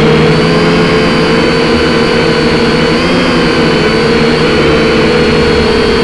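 Small quadcopter drone's electric motors and propellers whining steadily, the pitch dipping and rising slightly as the motors adjust thrust. Under it, a low rumble of wind buffeting the microphone.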